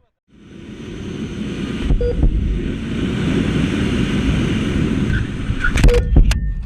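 Steady road and engine noise of a moving vehicle, fading in after a brief silence. A few sharp knocks come near the end.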